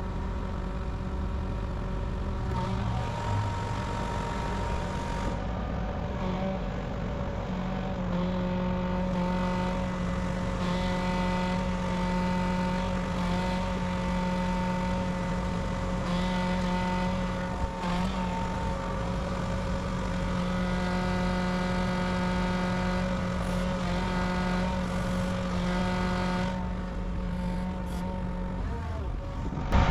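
A motor vehicle's engine running steadily at an even speed, with a constant hum.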